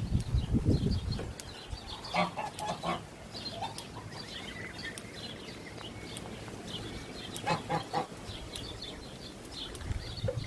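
Young waterfowl peeping in high chirps throughout, with short low calls from adult birds about two seconds in and again near eight seconds. A low rustling rush fills the first second and a half.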